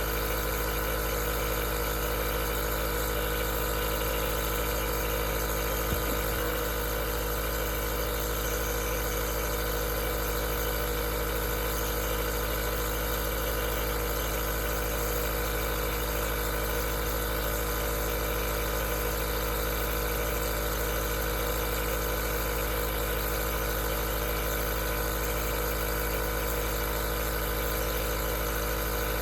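Aerosol nebulizer running: a steady, unchanging mechanical hum made of several steady tones.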